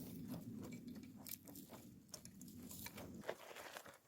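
Faint crunching and light clicks of ash and small metal scraps being worked through by hand, over a low steady hum that stops about three seconds in.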